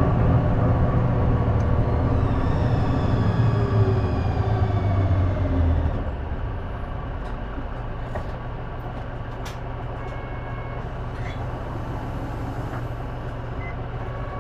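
Diesel city bus heard from inside the cabin: the engine runs loud with a whine that falls in pitch as the bus slows. About six seconds in it drops to a quieter, steady low hum, with a few faint clicks and a brief high tone later on.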